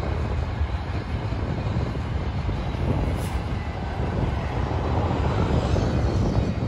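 Double-stack intermodal container train rolling past: a steady low rumble of steel wheels on rail from the passing well cars.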